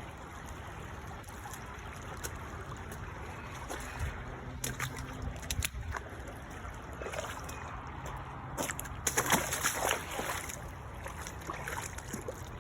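Floodwater running and trickling steadily, with a few splashes, the loudest cluster between about nine and ten seconds in.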